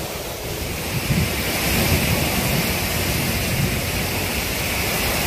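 Strong storm wind blowing hard, with low rumbling buffets on the microphone over a steady hiss, growing louder about a second in.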